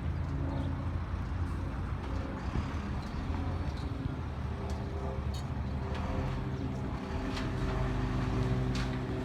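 Heavy vehicle engine running steadily, with a few light clicks and knocks over it.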